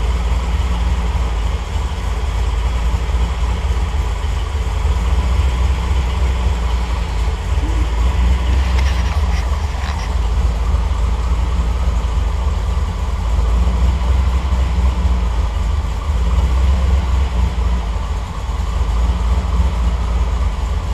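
A TR8's V8 engine idling steadily on its cold-start warm-up, with a deep low rumble that swells and dips slightly. The tuner reads the mixture as a little lean at this stage.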